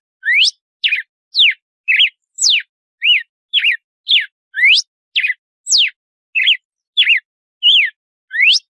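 Red-cowled cardinal (galo-de-campina) singing its 'açoite' (whip) song: a steady run of short, clear whistled notes, just under two a second, some sweeping sharply upward and others slurring down or arching.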